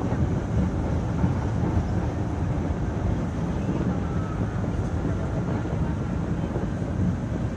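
Steady running rumble inside a moving MRT-3 light-rail car: wheels on the rails and the car body rattling as the train travels along the elevated track.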